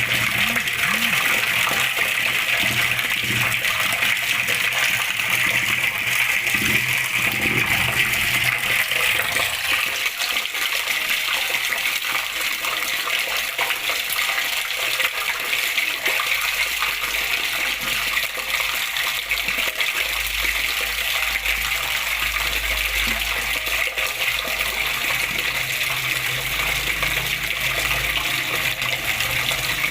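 Flowing water splashing steadily, a continuous rushing hiss with no breaks. A low rumble sits underneath from about halfway through.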